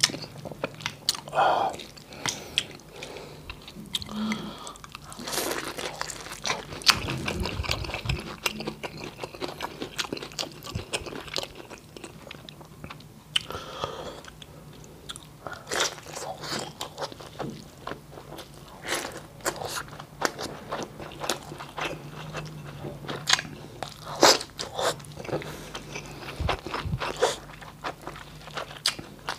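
A person chewing and smacking with the mouth close to the microphone, eating tender boiled beef and rice: irregular wet smacks and clicks throughout.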